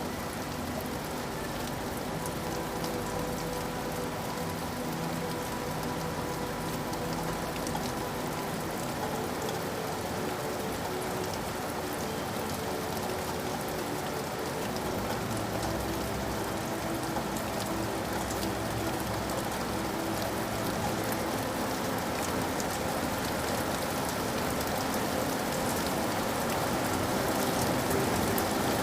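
Steady rain falling, a continuous hiss with fine drop ticks, growing slightly louder near the end.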